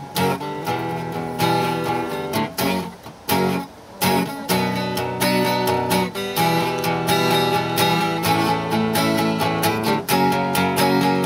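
Acoustic guitar strummed in chords as a song's instrumental introduction: a few broken-off strums over the first four seconds, then steady rhythmic strumming.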